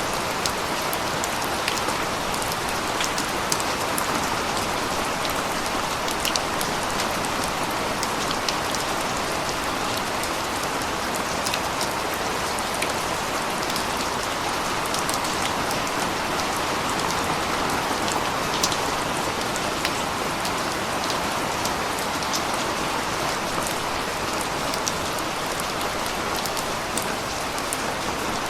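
Steady rain falling, a constant hiss with scattered sharper drop ticks landing on surfaces close by.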